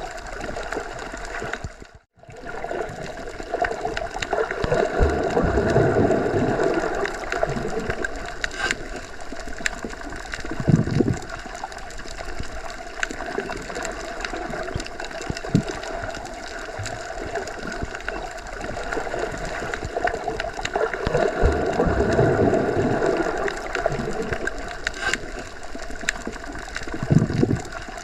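Muffled underwater ambience: a steady rushing wash of water heard while submerged, swelling slowly twice, with a couple of short low surges and a brief dropout about two seconds in.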